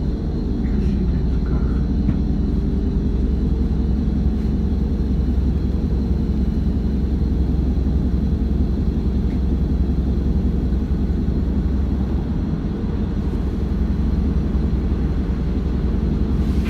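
Hino Blue Ribbon 2DG-KV290N2 city bus heard from inside while under way: its inline-four turbodiesel and drivetrain give a steady low rumble, easing slightly about twelve seconds in.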